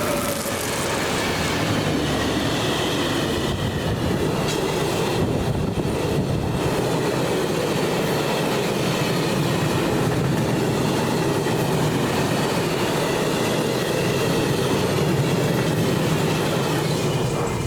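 A train passing close by: a loud, steady rumble and rattle of its wheels running on the rails, with a faint high squeal from the wheels over it.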